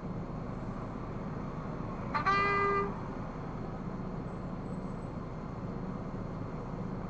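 A vehicle horn honks once, a short single toot of under a second about two seconds in, over the steady road and engine noise of a car driving in city traffic.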